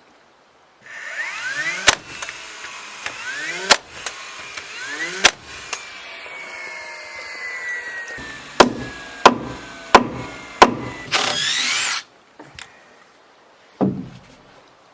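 Carpentry on wooden boards with a power tool and a hammer: three short power-tool runs rising in pitch, each ending in a sharp crack, then four hammer blows about two-thirds of a second apart and a brief final power-tool burst that cuts off suddenly, with one last thud near the end.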